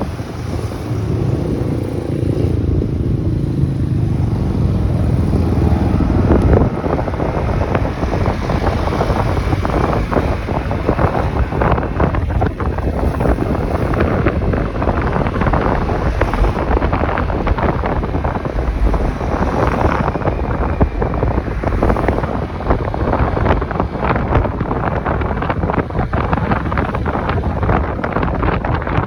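Wind buffeting the microphone of a riding motorcycle, with the engine and road noise running underneath as a steady roar.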